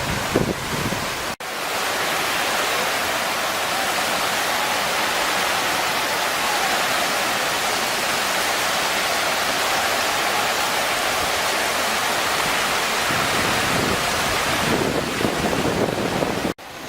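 Fast-running floodwater of a river swollen by typhoon rain, a steady loud rush of water. Wind buffets the microphone near the start and again from about two-thirds of the way through. The sound cuts out for an instant twice.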